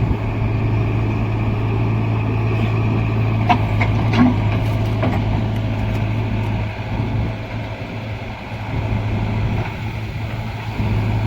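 Heavy diesel engine running steadily with a deep hum, with a few short sharp knocks around the middle.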